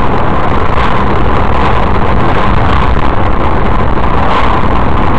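Steady road and engine noise of a moving car as picked up by a dashcam inside it: a loud, continuous low rumble with no distinct events.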